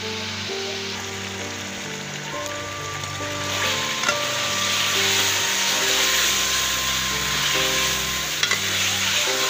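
Chicken pieces sizzling in hot oil and masala in a metal pan, growing louder about a third of the way in as a spatula starts stirring them, with a couple of sharp knocks of the spatula against the pan. Background music with held notes plays throughout.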